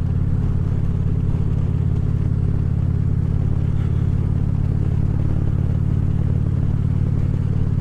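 Harley-Davidson Ultra Classic Limited's V-twin engine running at a steady cruising speed, with wind noise over the helmet microphone.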